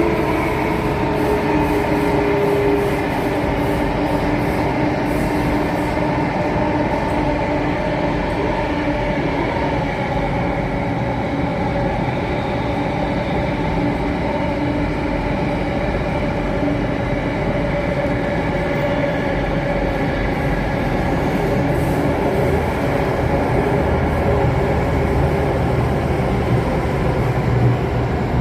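Alstom Metropolis C830 metro train running between stations, heard from inside the carriage: steady running noise with several held whining tones over it.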